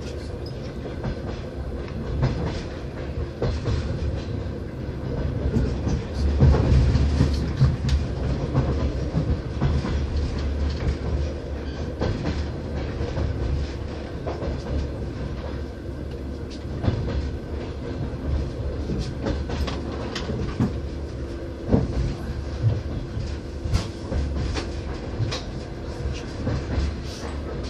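A moving train heard from inside the passenger carriage: a steady low rumble of the running gear with the wheels clicking over rail joints, swelling briefly about six seconds in.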